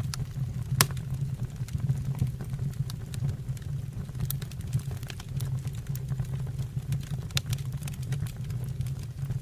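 Fire burning in a fireplace: a steady low rumble of flames with scattered sharp crackles and pops, the loudest about a second in.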